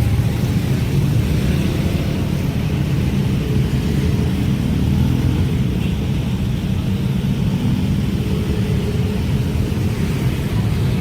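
Train passing close by: a steady low rumble with no let-up.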